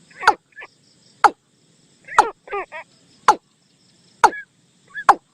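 Repeated bird calls of a hunter's decoy recording for the นกตูม: a sharp note sweeping quickly down in pitch about once a second, with shorter wavering calls between them.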